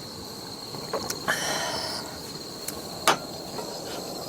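Crickets or similar insects chirping in a steady, high, even trill, with a few sharp clicks and knocks of handling at the table; the loudest click comes about three seconds in.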